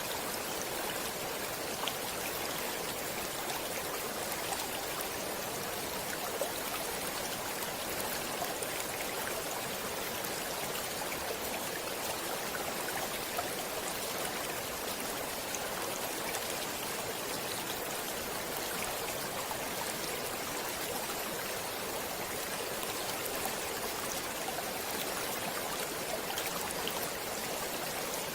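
Stream water running over rocks, a steady rushing splash with small scattered droplet sounds.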